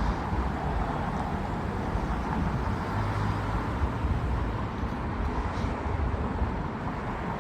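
Steady outdoor background noise: an even hiss with a low rumble underneath, like traffic or wind, with no distinct events.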